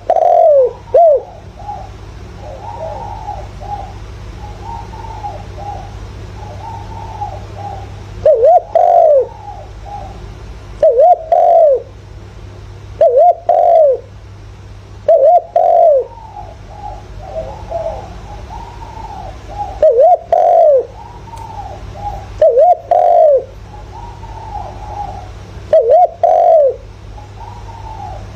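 Spotted dove cooing as a lure call: loud short coo phrases repeat every two to three seconds, with fainter cooing between them and a steady low hum underneath. This is the male's territorial call, used to provoke wild doves into answering.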